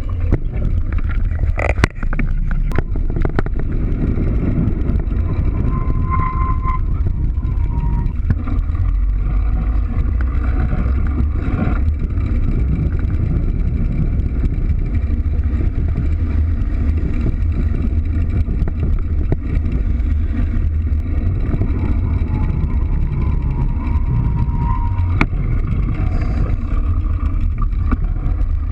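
Steady low rumble of wind buffeting an action-camera microphone, mixed with tyre noise from a mountain bike rolling along. A few sharp clicks come about two to three seconds in.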